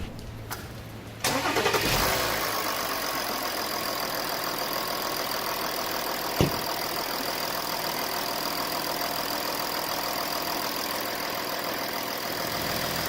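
VW Phaeton diesel engine starting about a second in after its injectors have been cleaned of carbon. It runs slightly louder for a moment, then settles into a steady idle, with one short knock partway through.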